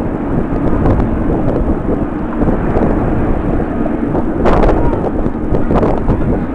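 Strong gusty wind buffeting the microphone over the steady rumble of jet airliner engines.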